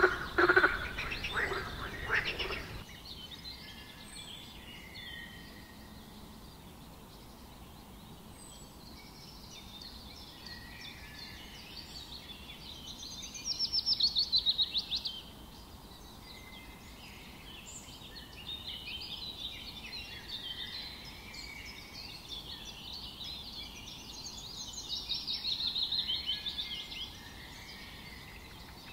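Wild birds chirping and twittering over a low steady background, with two louder bouts of fast repeated high notes, about 13 and 25 seconds in. At the start a loud, fast pulsing animal call sounds and stops about two and a half seconds in.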